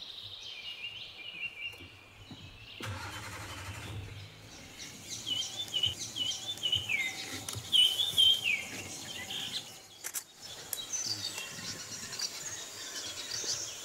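Wild birds calling in forest: a run of short, falling chirps, loudest around the middle, over steady outdoor background noise that shifts abruptly twice.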